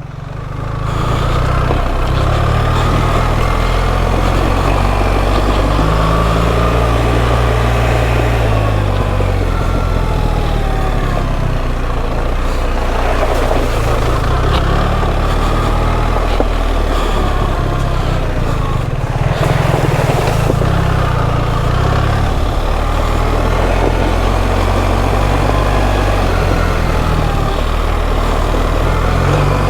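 BMW R 1300 GS boxer-twin engine running at low revs in first gear, its note rising and falling a little, over steady riding noise.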